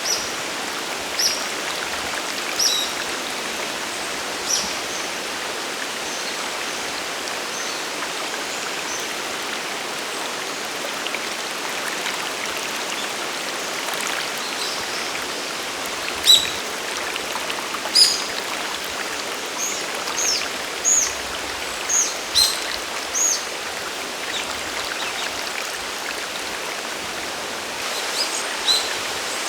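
Steady rush of water from a mountain stream and waterfall, with short, high bird chirps scattered over it. The chirps come more often in the second half, and some are quick falling whistles.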